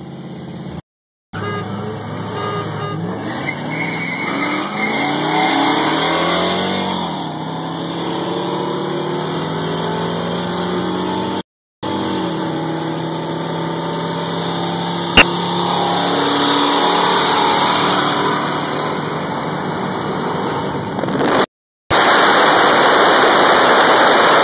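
V8 engine accelerating hard under full throttle, heard from inside the cabin. Its pitch climbs and falls back at each gear change, broken by a few abrupt cuts. A sharp click comes about 15 seconds in, and near the end loud wind and road rush takes over at high speed.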